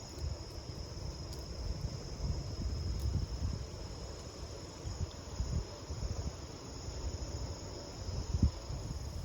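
Wind buffeting an iPhone microphone in gusty low rumbles, with a steady high-pitched insect trill running underneath.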